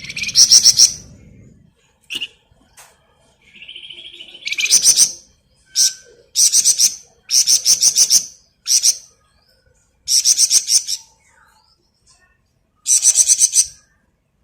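A flamboyan bird singing: a run of short, very high, rapidly stuttering trilled phrases, about eight of them, with brief pauses between, and a lower buzzing note between the first and second phrases. This is the dense rattling song that keepers call 'ngebren'.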